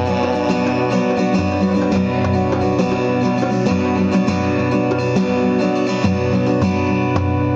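Acoustic guitar strumming steady chords over a djembe hand-drum beat: an instrumental passage of a rock song with no singing.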